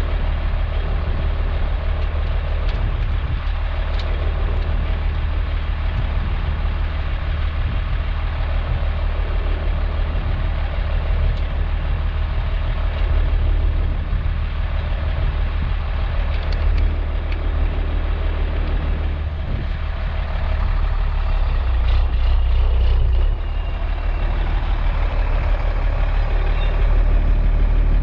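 International S1900 dump truck's DT466 diesel engine running steadily, a low drone that grows somewhat louder in the last third.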